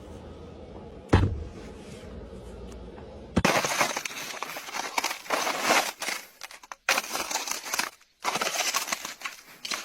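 Ice being struck and broken: one hard hit with a dull thud about a second in, then from about the middle a run of crisp crackling and crunching as ice shatters, broken by two short silences.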